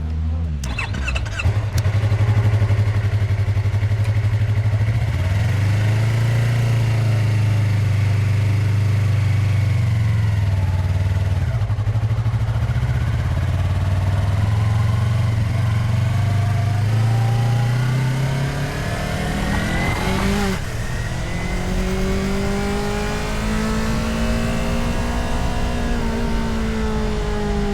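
Motorcycle engine running under way, its pitch rising and falling with the throttle through curves. About twenty seconds in it revs up sharply and settles into a higher, steadier note.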